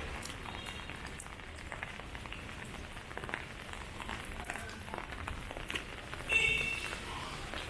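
Rain falling and dripping onto surfaces, a steady hiss scattered with many small drop ticks. About six seconds in, a brief high tone rises above the rain.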